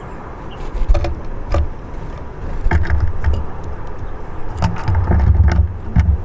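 Wind buffeting the microphone in gusts, a heavy low rumble, with sharp clicks and taps scattered throughout from birds pecking and hopping on a wooden balcony bird house.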